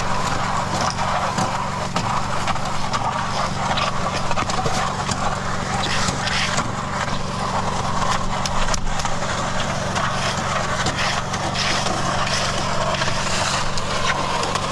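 Mud Mixer portable concrete mixer running: a steady engine hum under irregular scraping and clattering as concrete is mixed and placed.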